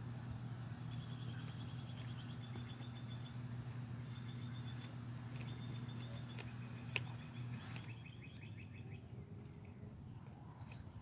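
Faint bird chirping in quick trills, over a steady low hum that stops about three-quarters of the way through, with a few faint clicks.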